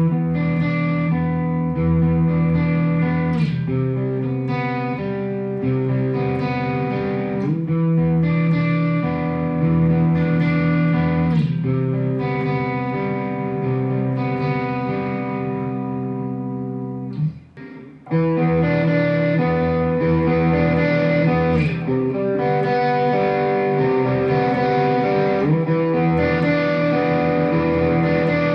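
Electric guitar played through a Mooer GE100 Pro multi-effects preset: sustained, ringing chords that change every couple of seconds, with a short break about 17 seconds in.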